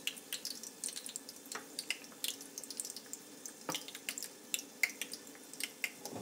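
Egg-soaked bread frying in a shallow pan of oil over a low flame: the oil sizzles with a steady scatter of small, irregular pops and crackles.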